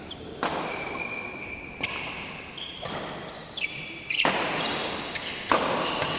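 Badminton doubles rally: five sharp racket strikes on the shuttlecock, a little over a second apart, with sneakers squeaking on the court floor between them.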